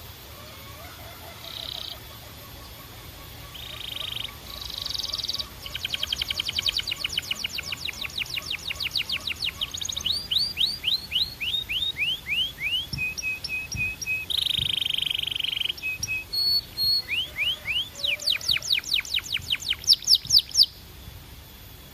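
Domestic canary singing a long string of trilled phrases. Each phrase is a rapid run of repeated notes, many sweeping down in pitch, with short buzzy rolls between them. After a quieter opening the song builds, and the loudest run of notes comes near the end.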